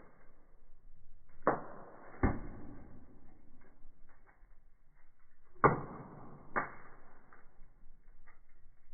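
Firewood burning in a fireplace, crackling with many small ticks and four sharper pops.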